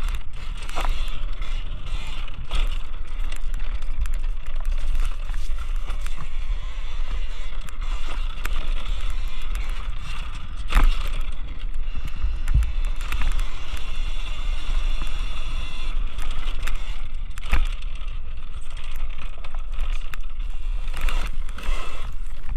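Electric dirt bike being ridden over a dirt track: a steady motor whine with drivetrain rattle and wind rumbling on the microphone, and a few sharp knocks along the way.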